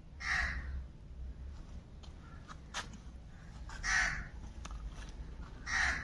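Three harsh, squawking bird calls, each about half a second long: one just after the start, one about four seconds in and one near the end.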